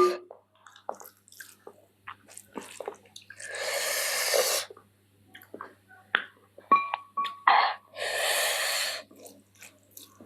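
Close-miked eating of chicken feet curry: small wet chewing and sucking clicks, broken twice by a long, loud breath, about three and a half and eight seconds in, like air drawn hard through a mouth burning from very spicy curry.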